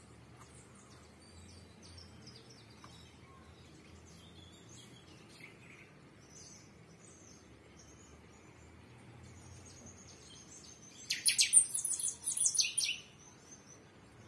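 Small birds chirping faintly and intermittently, then two quick, loud bursts of rapid high-pitched chirps about eleven seconds in, lasting about two seconds together.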